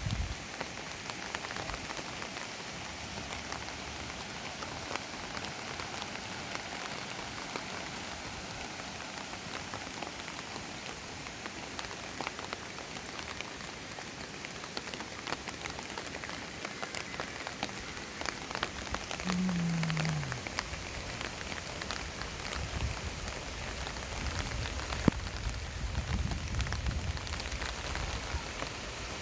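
Steady rain falling and pattering on surfaces, with dense individual drop ticks throughout. A brief low falling tone sounds about twenty seconds in, a low rumble swells in the last few seconds, and a single sharp knock about twenty-five seconds in is the loudest moment.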